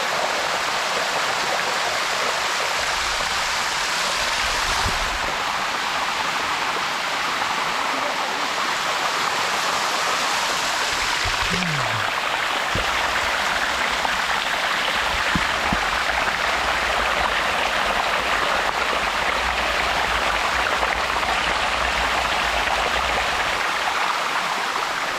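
Waterfall water rushing steadily over rock, an even, continuous wash of noise. A deeper rumble comes and goes under it through the middle stretch.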